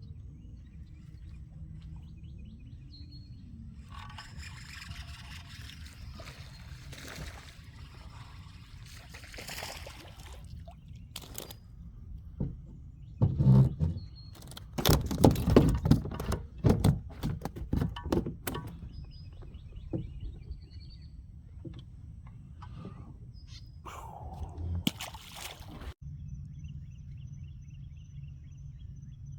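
Water splashing and sloshing against a small boat, with a loud run of splashes about halfway through, and birds chirping in the background.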